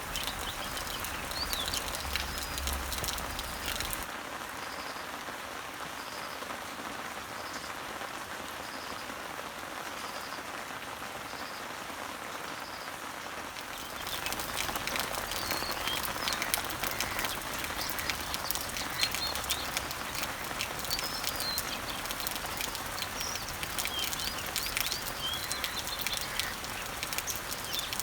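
Steady rain falling on leaves, with the patter of individual drops, and small birds chirping over it. The chirping drops out from about 4 to 14 seconds, when only a faint high note repeats about once a second, then comes back busier.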